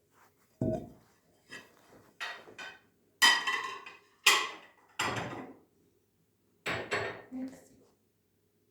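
Dishes and cutlery clattering and clinking as they are taken out of a dishwasher and set down. There are about eight separate knocks, some ringing briefly. The loudest come a little past three and four seconds in.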